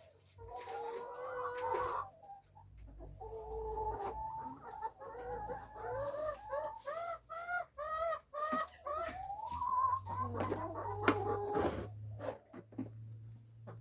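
Backyard chickens clucking and calling, with a quick run of short rising-and-falling calls about halfway through.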